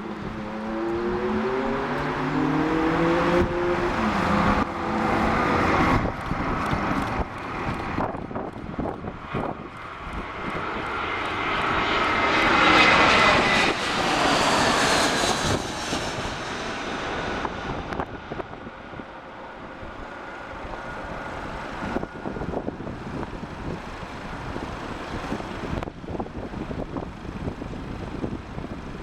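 Jet airliner flying past on its landing approach. The engine whine swells to its loudest about 13 seconds in, its high tones sliding down in pitch as it passes, then fades away.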